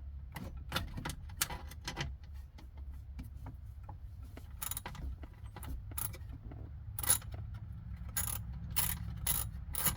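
Metal clicks and clinks of hand tools, a ratchet and sockets, working on small bolts as they are loosened. The clicks are scattered at first and come more often in the last few seconds, over a steady low hum.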